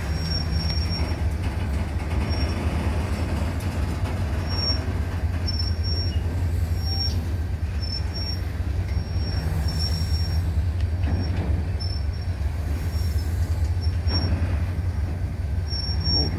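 Autorack freight cars rolling slowly past over the rails, with a steady low rumble and short, high-pitched wheel squeals that come and go every second or so.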